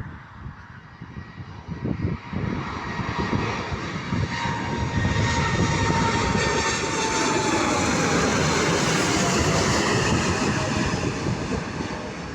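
Boeing 747-8's four GEnx turbofan engines at takeoff power. The jet noise swells over a few seconds, holds loud and steady, then eases off near the end, with a fan whine that slowly falls in pitch as the aircraft passes.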